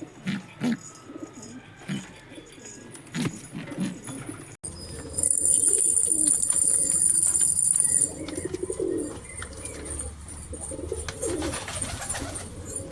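Domestic pigeons cooing repeatedly, short low coos one after another. About five seconds in, a loud, steady, high-pitched hiss comes in and stops suddenly about three seconds later.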